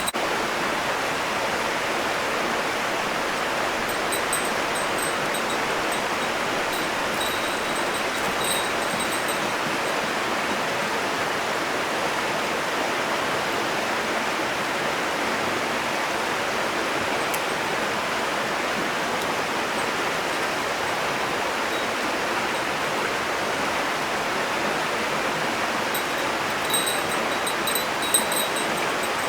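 Steady rushing of flowing water, like a stream, with a few faint, high tinkling sounds briefly about four seconds in and again near the end.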